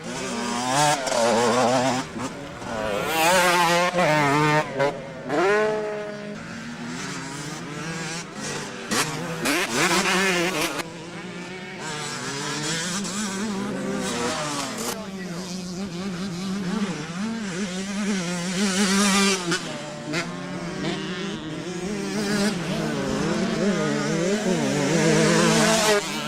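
Several motocross bikes racing, their engines revving up and down as riders work the throttle, with overlapping engine notes rising and falling as bikes pass.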